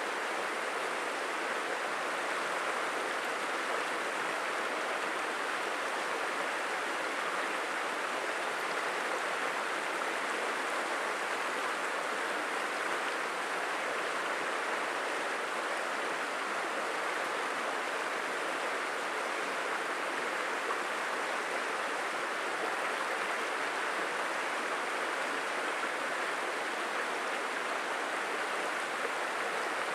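Stream water rushing and burbling over rocks, a steady unbroken wash of sound.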